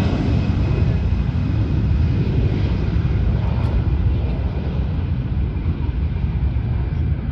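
Jet airliner's engines rumbling loudly with a faint steady whine above. The higher tones slowly fade as the aircraft moves away.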